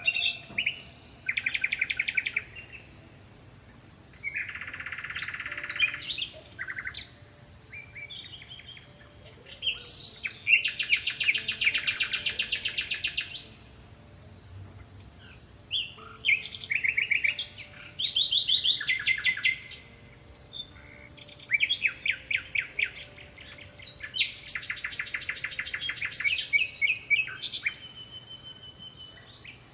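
Songbirds singing and chirping in a series of separate phrases, mostly fast trills of quick repeated notes, with short gaps between them. A faint steady high tone runs underneath.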